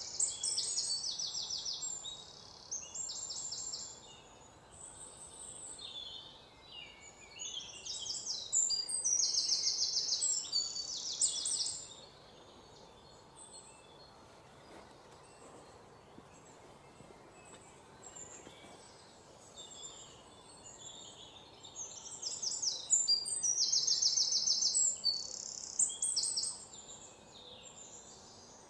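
Small birds chirping and singing, with repeated bouts of rapid, high trills a second or two long. They are loudest about a third of the way in and again toward the end, with a quieter stretch of scattered chirps between.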